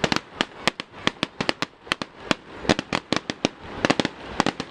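Aerial fireworks display: a rapid, irregular run of sharp bangs and pops, several a second.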